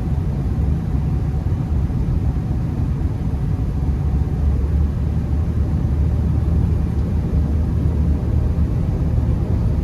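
Steady low rumble of a Honda Accord heard from inside the cabin while driving on a snowy road, tyre and engine noise blended, with no sudden knocks or changes.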